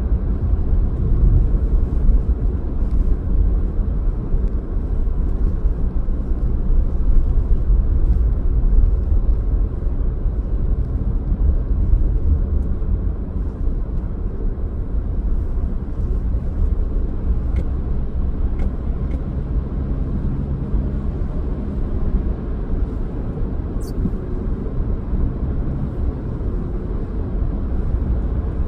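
Steady low rumble of a car being driven, engine and tyres on the road.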